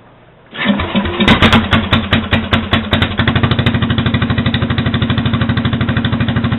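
Sears Suburban SS12 garden tractor engine, with no muffler, catching on choke from a cold start about half a second in. It fires roughly with sharp pops for a couple of seconds, then settles into a steady, fast, loud running beat.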